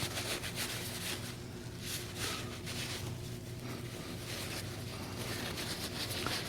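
Faint handling sounds of metal filings being cleaned off a small filter magnet: scattered light ticks and rustles over a steady low hum.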